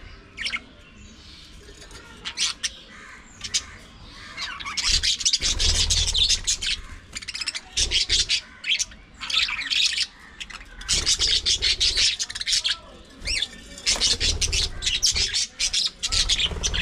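Budgerigars chattering and squawking in quick bursts, sparse at first and nearly continuous from about five seconds in.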